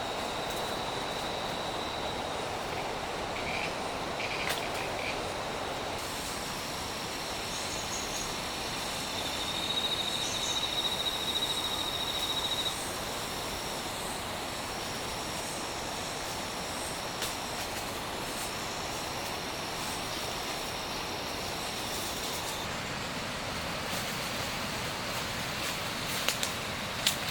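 Steady outdoor background noise with high, thin insect trills that come and go, one louder stretch about ten seconds in. A couple of sharp clicks sound near the end.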